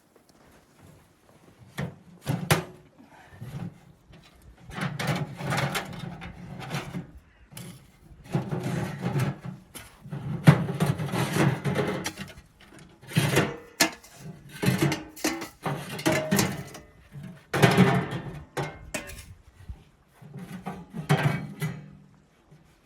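Irregular bursts of scraping and rubbing, each lasting a second or two, with a few short sharp knocks between them.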